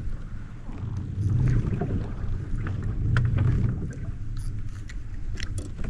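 Water and handling noise on a fishing kayak: a low, uneven rumble that swells and fades, with scattered light clicks and knocks.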